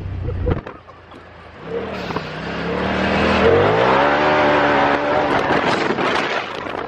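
Turbocharged side-by-side engine under hard throttle: it drops off about half a second in and goes quieter for a second, then climbs steadily in pitch as the machine accelerates again, with a rougher rushing noise near the end.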